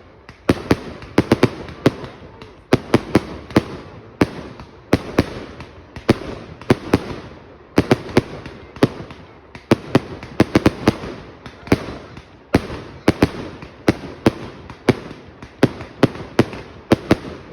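Fireworks going off in a display: a rapid run of sharp bangs in clusters about every second, each trailing off in an echo.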